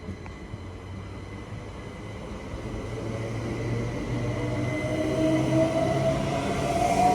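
Electric multiple-unit train approaching, growing steadily louder, with the whine of its traction motors edging up in pitch over the rumble of wheels on rail.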